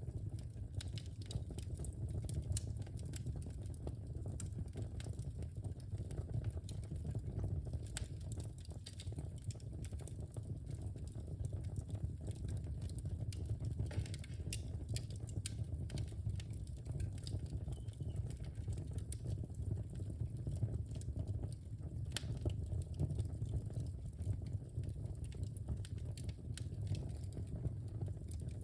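Wood fire burning in a fireplace: a steady low rumble of the flames with frequent small, sharp crackles and pops scattered irregularly throughout.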